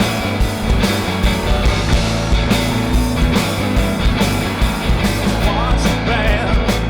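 Live rock band playing a song, with a steady drum beat under bass, guitar and keyboards.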